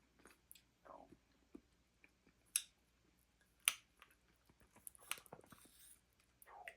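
A person eating stew: faint chewing and mouth sounds, with two sharper clicks about two and a half and three and a half seconds in.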